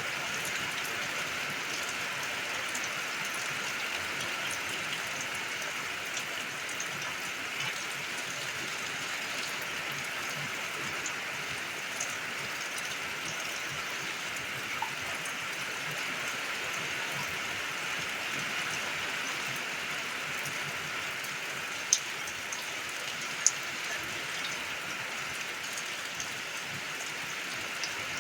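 Steady rain falling: an even hiss with scattered drops ticking, and two sharper drop clicks about two-thirds of the way through.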